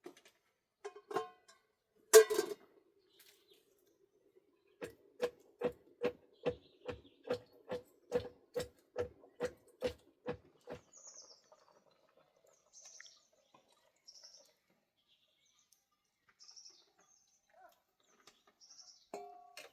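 A single loud knock, then a steady run of about fifteen even knocks, roughly two and a half a second, each with a short ringing note, like repeated strikes on wood. Faint, short bird chirps follow in the second half.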